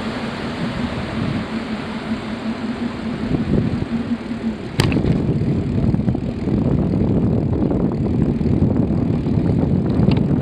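Wind noise on the microphone of a moving bicycle ride, a steady rushing with a faint hum through the first half. About halfway in there is a sharp click, and after it the low wind noise grows heavier.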